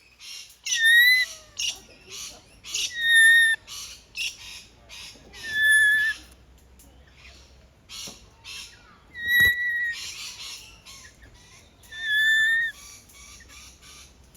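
Birds calling: one bird repeats a loud, clear whistled call about five times, each under a second long, over a steady chatter of short high chirps from other birds.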